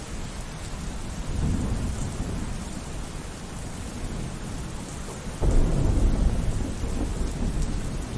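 Thunderstorm: rain falling steadily, with low thunder rumbling. A softer swell comes about one and a half seconds in, and a louder rumble starts suddenly about five and a half seconds in, then slowly fades.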